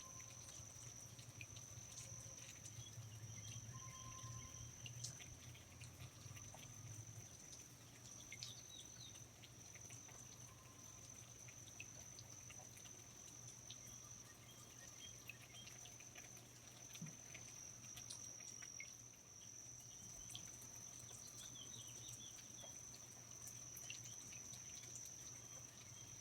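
Faint rainforest ambience: insects trilling in one steady high-pitched drone throughout, with scattered small drips and a few brief chirps. A low steady hum sits underneath.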